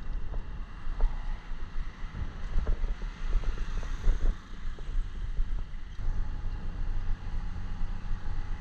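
Motorcycle riding on the road: a low engine rumble under gusty wind buffeting on the microphone. The low rumble turns steadier about six seconds in.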